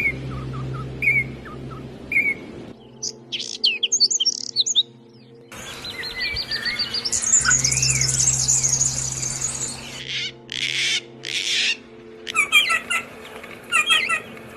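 Songbirds chirping and singing in a run of short clips that cut abruptly one to the next: a fast trill in the middle and sharp repeated chirps near the end. Steady background music plays underneath.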